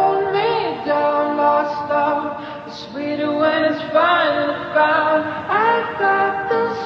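Music: layered sung vocals, with notes sliding up and down and no clear words.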